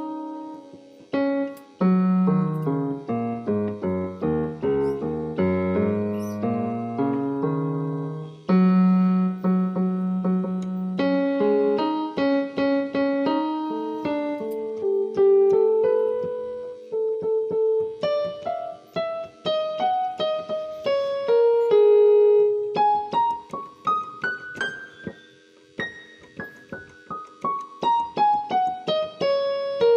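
Background piano music: flowing arpeggios and a melody of struck notes, with descending runs and then rising ones.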